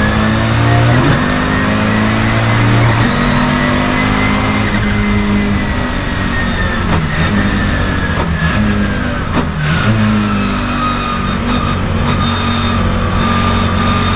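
Turbocharged 2.2-litre five-cylinder engine of a 1989 Audi 200 Turbo Quattro race car driven hard, its pitch stepping up and down through several gear changes. A high whine rises slowly over the first few seconds and then falls away.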